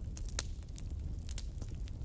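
Wood fire crackling: a steady low rumble of the flames with scattered sharp pops, the clearest about half a second in and again near the end.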